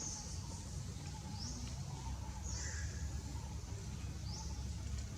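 High-pitched animal squeaks, each rising then held briefly, repeating about every second and a half over a low rumbling background.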